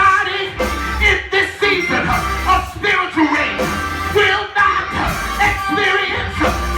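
Gospel church music from a live band with a voice singing over it and heavy bass notes.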